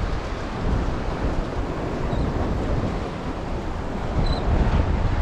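Storm wind buffeting the microphone in uneven gusts, a heavy low rumble, with the wash of surf beneath.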